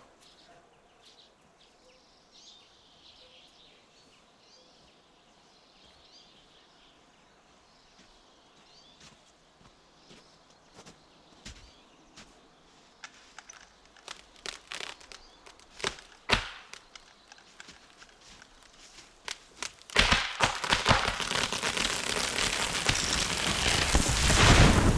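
A tree coming down: a run of sharp cracks and snaps that come faster and faster, then about two-thirds of the way in a sudden loud rushing crash through branches that lasts several seconds.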